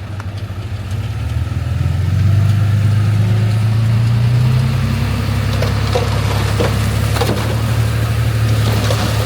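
Heavy diesel engine of earthmoving machinery running loud and low, swelling over the first two seconds and then holding steady. A few sharp knocks come in the second half.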